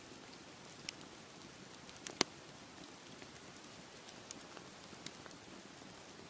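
Beach bonfire crackling, with scattered sharp pops, the loudest about two seconds in, over a steady wash of sea waves.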